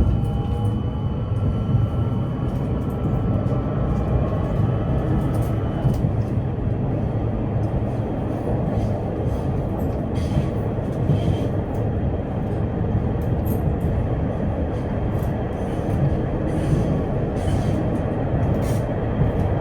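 Passenger-cabin ride noise of a PKTS 71-931M Vityaz-M low-floor tram running between stops: a steady rumble from the wheels and running gear. A faint whine from the traction drive fades out about six seconds in.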